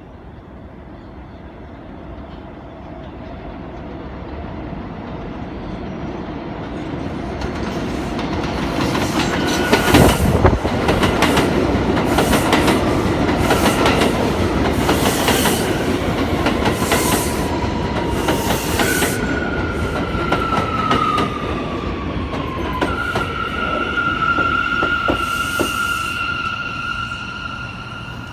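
New York subway train of R160A or R179 cars approaching and pulling in, its noise building as it nears, with the wheels clacking over rail joints. Near the end the brakes squeal, first falling in pitch and then holding a steady high note as the train slows to a stop.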